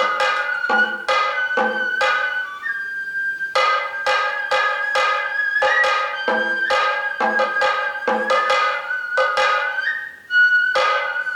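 Kagura hayashi music: a transverse bamboo flute holds long high notes, shifting pitch now and then, over a quick, uneven pattern of drum strokes. Near the end the drumming drops out for a moment, then comes back.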